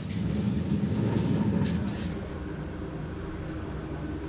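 Turbocharged 2.2-litre five-cylinder engine of a race-prepared Audi 200 Turbo Quattro, heard from inside the car, pulling hard for about two seconds. It then drops to a quieter, steadier note, with a short turbo hiss at the moment it backs off.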